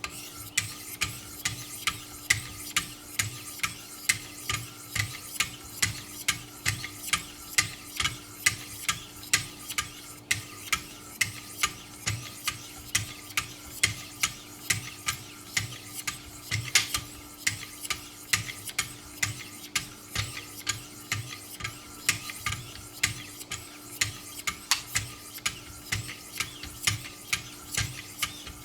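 1,000-grit diamond stones of a Wicked Edge guided sharpening system stroking along a clamped knife edge, with sides alternating. The scraping strokes come in a quick, even rhythm of about three a second, over a steady low hum.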